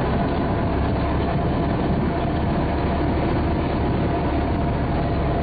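Tractor engine running steadily at an even level, with no change in speed.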